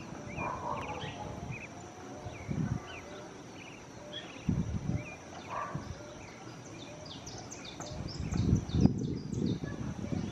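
Small birds chirping and trilling, many short calls, over a steady high whine. Irregular low rumbling bursts grow louder near the end.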